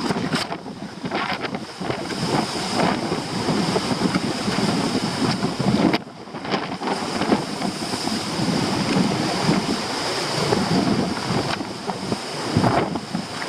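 Storm waves breaking and very strong wind blowing across the microphone, rising and falling in gusts with a short lull about six seconds in.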